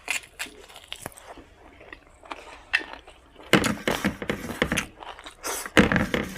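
A person chewing mouthfuls of mutton fat with rice and gravy close to the microphone. Scattered mouth clicks give way to dense bouts of chewing about halfway through and again near the end.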